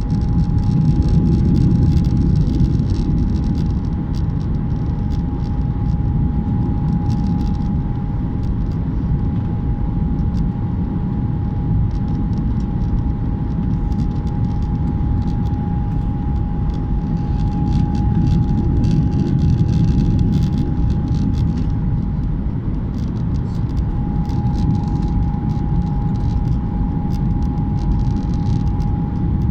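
Airliner cabin noise: a steady low rumble of engines and airflow with a constant whine held at one pitch.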